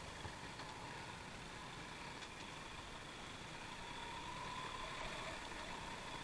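Motorcycle engine running faintly at low riding speed, with a thin steady tone that rises a little about four seconds in.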